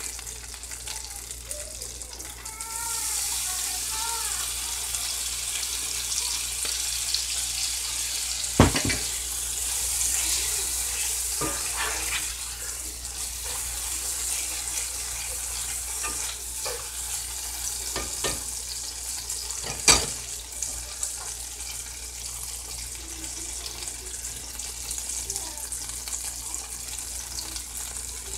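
Diced potatoes sizzling in a cast-iron skillet, the sizzle growing louder about two and a half seconds in, with a spatula scraping and knocking against the pan, twice sharply.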